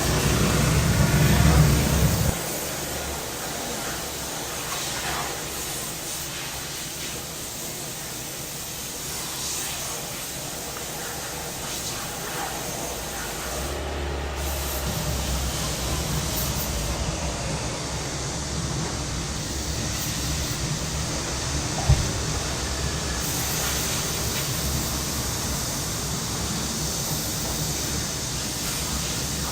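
Cicadas droning in a steady high hiss. Under it, a low vehicle-engine rumble stops about two seconds in and comes back about halfway through, with one sharp tick a little later.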